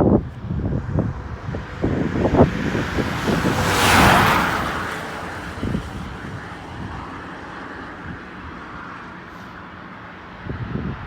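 A vehicle passes close by, its noise rising quickly to a peak about four seconds in and then fading away slowly. Wind buffets the microphone in the first few seconds.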